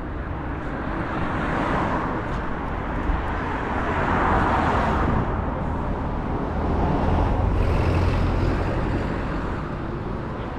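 Street traffic: road vehicles passing, the tyre and engine noise swelling about four seconds in and again, with a deeper rumble, around seven to eight seconds.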